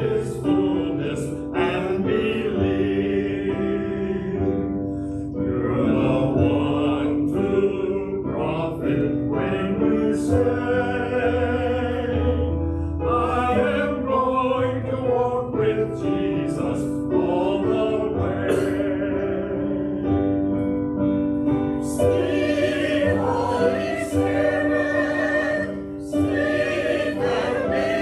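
Choir singing with accompaniment, as music in a church service.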